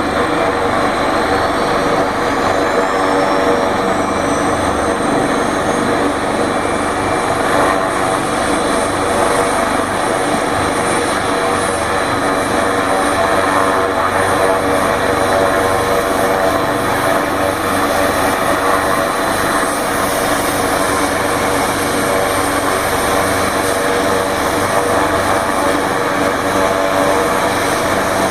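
Emergency medical helicopter running close by, a steady loud drone of turbine and rotor, with a high whine that rises in pitch over the first several seconds.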